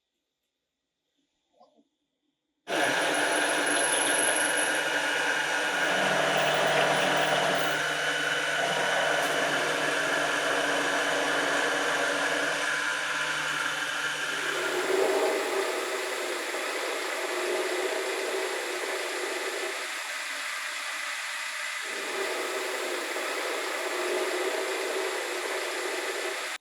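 An electric power tool running steadily, starting abruptly a few seconds in; its deep hum drops away about halfway through while the higher running sound carries on.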